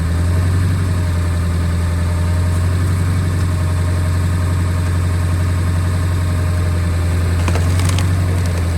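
Truck engine held at about 1500 RPM in second gear, running a steady low drone as it turns a Stickler cone screw splitter on the drive wheel. A few sharp cracks come in near the end.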